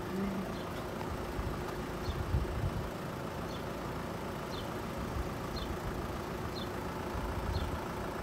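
Road vehicles idling at a level crossing with the barriers down: a steady low engine rumble with a faint hum, swelling briefly twice. A faint short high chirp repeats about once a second.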